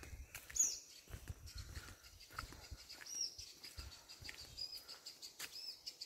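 Faint birds chirping, short high calls now and then, over a steady faint high drone, with a few soft low thumps.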